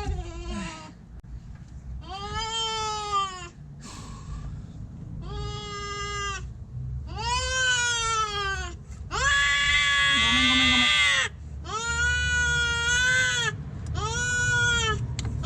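A stray cat caught in a vehicle's engine bay yowling in distress. It gives about seven drawn-out cries, each rising and then falling in pitch, and the longest and loudest comes about two-thirds of the way through.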